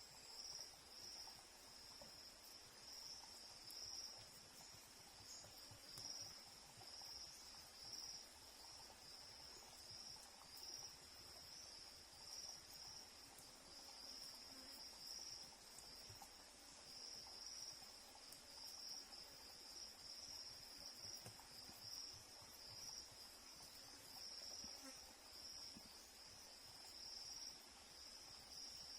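Faint, continuous high-pitched insect chorus, like crickets, steadily trilling with a gentle pulsing.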